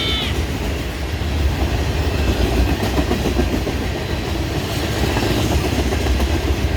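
Manifest freight train's cars rolling past on the track, a loud, steady rumble.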